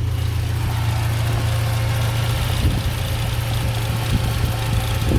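Car petrol engine idling steadily, fully warmed up, with an even low hum under a hiss.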